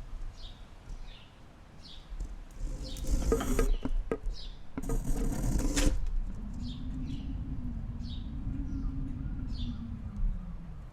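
Small birds calling with short, repeated downward chirps. A burst of rushing noise comes about three seconds in and stops sharply near six seconds, and a low hum rises and falls beneath.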